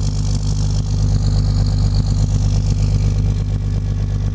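Cummins diesel engine running steadily at high idle just after a cold start, held up by the engine being cold after sitting weeks in sub-freezing weather without a block heater.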